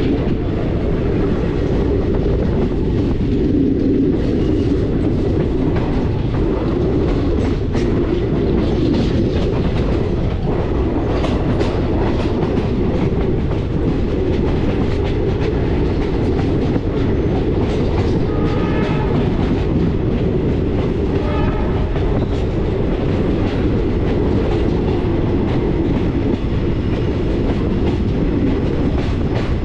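Passenger train running at speed, heard from on board: a steady rumble with the wheels clattering over rail joints. A horn sounds briefly twice about two-thirds of the way through.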